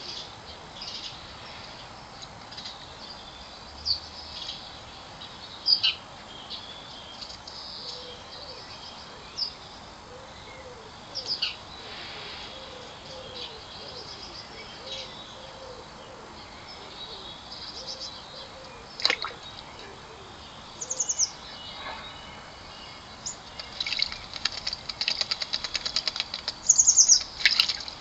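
Garden birds, blackbirds among them, giving scattered short chirps and downward-sweeping calls, with a run of soft low notes in the middle. Near the end comes a fast, loud rattling chatter.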